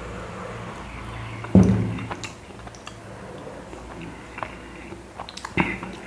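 A man chewing and eating chapati, with scattered wet mouth clicks. A sharp thump about a second and a half in is the loudest sound, and another knock comes near the end.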